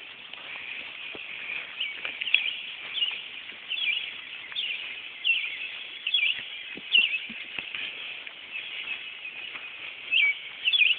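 Small birds chirping repeatedly, short high chirps every half second to a second, over a steady outdoor hiss.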